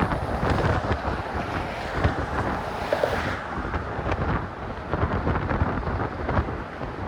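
Strong wind buffeting a phone's microphone: a steady rushing noise that swells and eases with the gusts.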